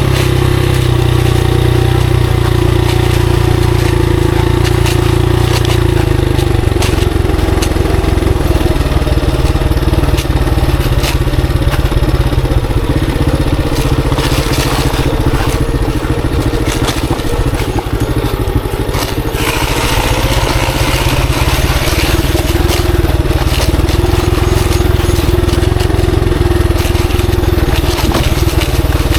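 Monarch Axis 125 motorcycle engine running while riding a dirt trail, with frequent clicks, knocks and crunching from the ride over rough ground.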